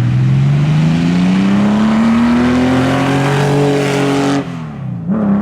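Porsche 904 FF Special's flat-six racing engine accelerating hard, its note climbing steadily for about four seconds, then dropping sharply as the throttle comes off and picking straight back up near the end.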